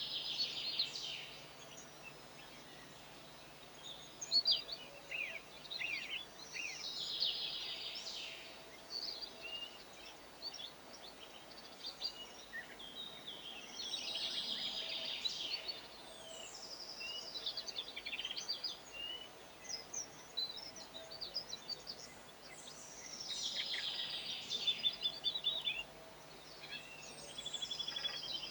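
Garden songbirds singing: a dense twittering song phrase of about two seconds recurs every six to seven seconds, with scattered short chirps in between.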